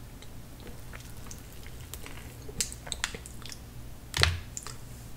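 Close-miked eating of tiramisu cake: soft, wet mouth clicks and chewing, with a few sharper clicks about two and a half to three seconds in and one louder knock about four seconds in.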